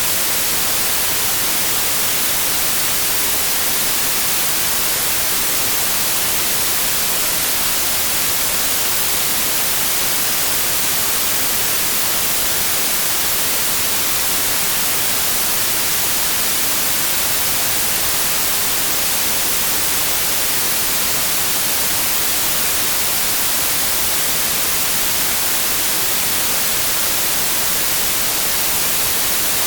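Steady, loud, digitally generated white noise, an even hiss with no rhythm or changes.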